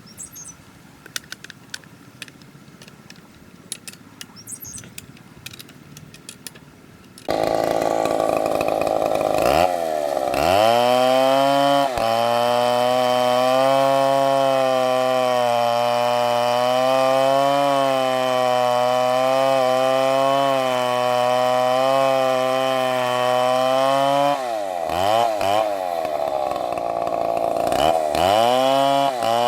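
Faint clicking for several seconds, then a STIHL two-stroke chainsaw comes in suddenly about a quarter of the way in and runs at high revs, its pitch wavering. The engine note drops and comes back up a few times, briefly near the start and again near the end.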